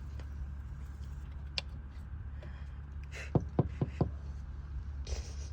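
A few sharp knocks in quick succession, over a steady low hum.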